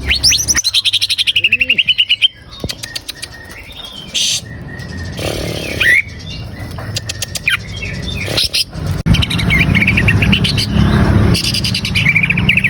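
Green leafbird (cucak ijo) singing: a fast rattling run of rapid repeated high notes in the first two seconds, then scattered chirps and whistled phrases. A steady low noise lies beneath the second half.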